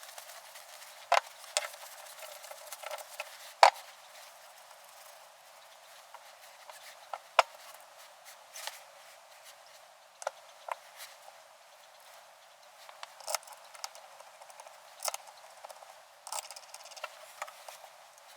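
Irregular clicks and light knocks of small metal parts and hand tools being handled, with sharper knocks about a second in, about three and a half seconds in, and at about seven and a half seconds.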